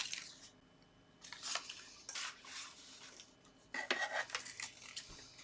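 Quiet tabletop handling of paper craft pieces: a click, then scattered light rustles and scrapes as paper star embellishments are handled and stuck together.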